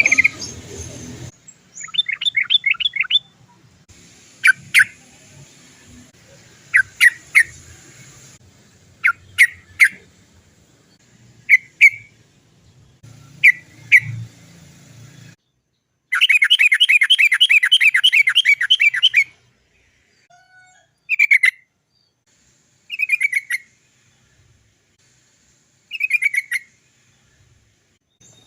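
Yellow-vented bulbul (trucukan) singing: short bubbly "chok" phrases repeated every second or two, with fast rolling trills, the longest about three seconds midway.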